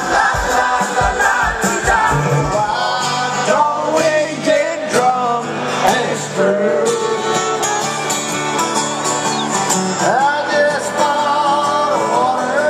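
Live rock band music with singing, heard from the audience. A steady kick-drum beat drops out about three seconds in, leaving the voices and instruments.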